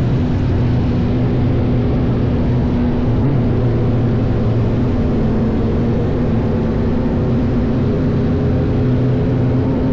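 Motorcycle engine running at a steady cruise, with wind rushing over the helmet microphone; the engine note starts to climb near the end as the rider opens the throttle.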